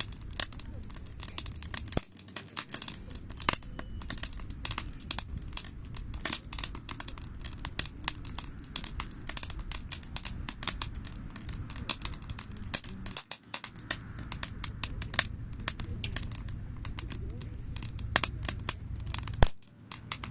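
Wood campfire crackling: a dense, irregular run of sharp pops and snaps over a low steady rumble.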